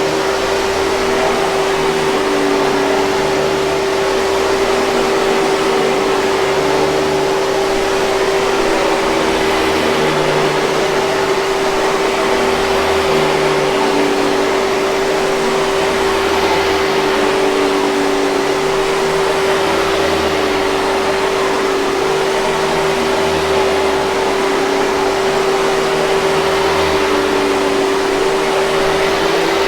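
Hoover 5000 Series canister vacuum cleaner running steadily: a constant motor hum over a rushing hiss of air.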